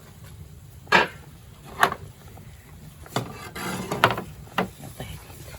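A series of sharp knocks and clatters: two single knocks about a second apart, then about a second of rattling clatter that ends in a loud knock, and one more knock shortly after.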